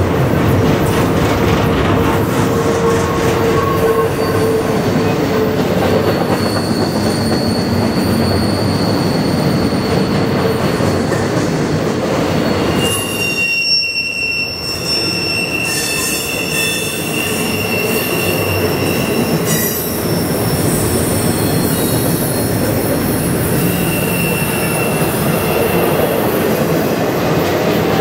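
Double-stack intermodal well cars rolling past: a steady rumble of steel wheels on rail, with high-pitched wheel squeal that comes and goes. About halfway through the noise briefly dips before picking up again.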